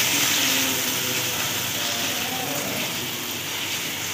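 Minced garlic sizzling steadily in hot oil in a frying pan, sautéing.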